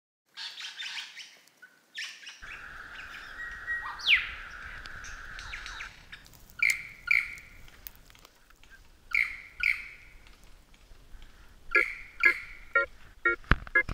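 Birds calling: short chirps at first, then loud repeated calls in pairs and, near the end, a rapid run of calls. Between them, a steady high tone with a sharp upward sweep a few seconds in.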